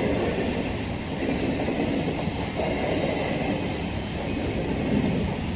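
Eastern Railway EMU electric local train running past at speed: a steady, continuous rumble of its wheels on the track.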